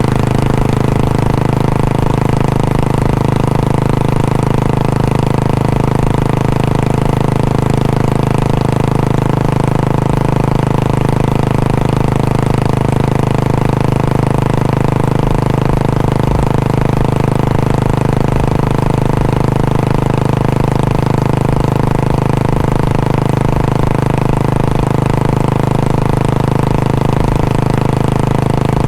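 Royal Enfield Bullet 500's single-cylinder four-stroke engine idling, running steadily at an even, unchanging speed.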